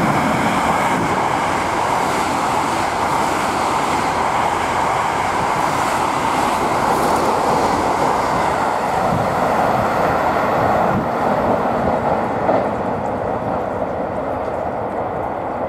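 683-series Thunderbird limited express electric train running past the platform at speed: a loud, steady rush of wheels on rail and air. It dies down in the last few seconds.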